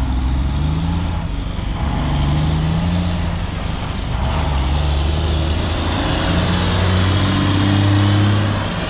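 Heavy diesel engine running under way, its pitch shifting up and down and getting louder toward the end, with a faint high whine rising over the last few seconds.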